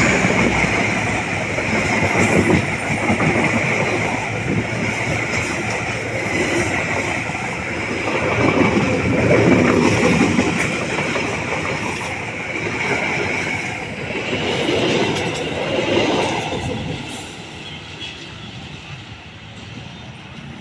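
A train passing on the track, its wheels clattering over the rail joints, the sound dropping away near the end.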